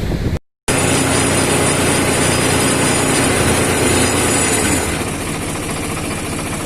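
Tractor diesel engine running steadily, a little quieter from about five seconds in, after a brief cut near the start.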